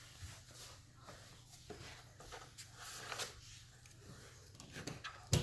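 Faint rustling and light clicks of objects being handled, with a sharper knock near the end.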